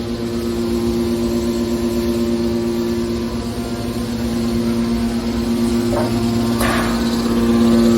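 Hydraulic metal can baler running: its power pack gives a steady hum with a low rumble, and a short rushing, crunching noise comes about six and a half seconds in.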